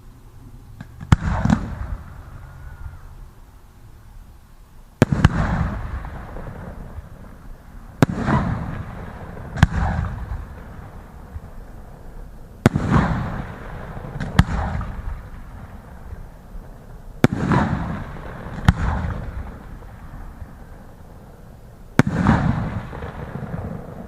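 Aerial fireworks bursting: about nine sharp bangs every few seconds, often in pairs about a second and a half apart. Each bang trails off in a rumbling echo.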